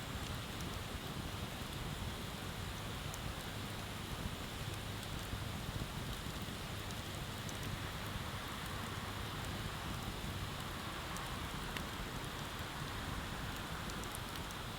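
Wood bonfire crackling, with a few faint sharp pops, over a steady rushing background noise of running river water.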